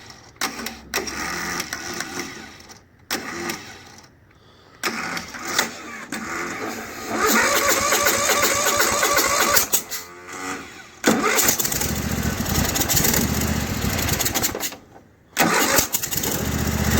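Electric starter cranking a Toro TimeCutter riding mower's engine in several separate bursts with pauses between, its starter Bendix drive having been sticking. About sixteen seconds in the engine catches and settles into a steady run.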